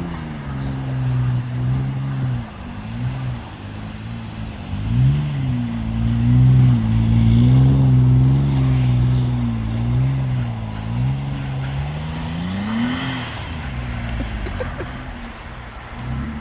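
Toyota 4Runner's 4.0-litre V6 running through an aftermarket MBRP exhaust, its engine speed rising and falling several times, with the biggest climb and drop about thirteen seconds in.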